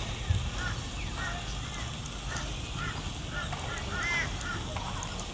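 A bird calling in a quick run of short, arched chirps, about a dozen in all, over a steady low rumble.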